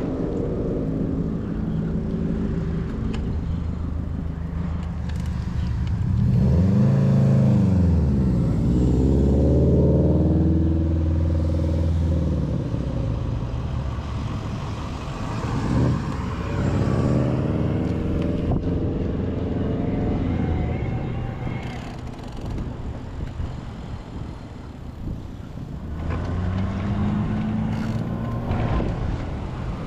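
Road traffic: motor vehicles passing close by, their engine notes rising and falling as each goes past. The loudest pass comes about a quarter of the way in, with more vehicles going by in the middle and near the end.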